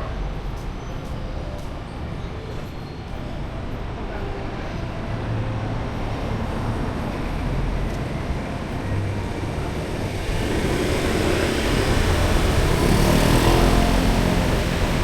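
Street traffic with a steady rumble. A vehicle draws closer and grows louder over the last few seconds, loudest near the end.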